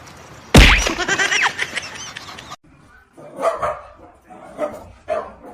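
A loud sudden bang, then a dog barking in short repeated barks.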